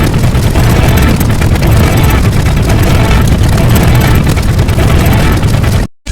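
Loud, dense layered sound effects with a heavy engine-like rumble, cutting to silence for a moment just before the end.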